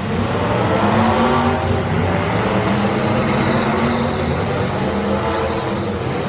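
Demolition derby car engines running loudly and revving, their pitch rising and falling.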